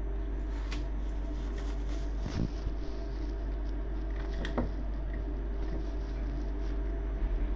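Train carriage interior: the steady low rumble and hum of the train running, with a few faint knocks.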